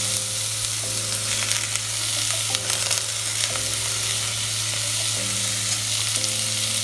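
Onions sizzling in hot oil in a cast-iron Dutch oven while a steel spoon stirs a coarse ground paste of coconut, shallots, green chilli and ginger-garlic into them, the spoon clicking and scraping against the pot. A steady low hum runs underneath.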